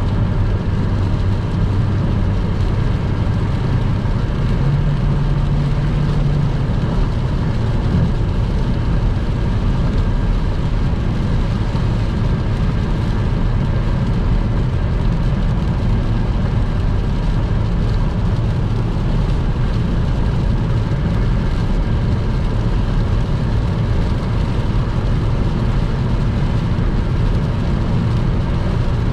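Car driving at speed on a wet motorway: steady engine drone under a constant wash of tyre and road noise. The low hum steps up in pitch for a couple of seconds about five seconds in, then settles back.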